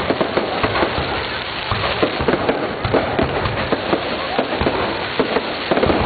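Aerial fireworks bursting in quick succession: many sharp pops and bangs over a constant crackle, with no pause.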